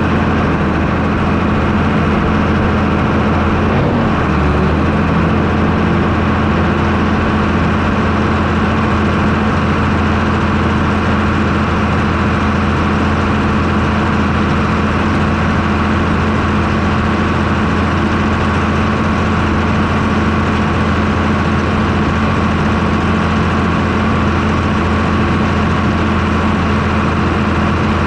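White 6125 tractor's diesel engine running steadily under load while planting corn, with an unchanging low engine tone.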